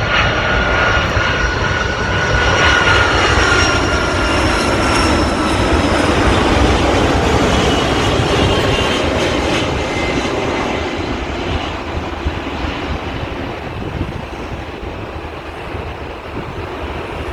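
Airbus A330 twin-engine jet passing close on its landing approach: loud engine noise with a whine that slowly falls in pitch as it goes by, easing off over the last few seconds.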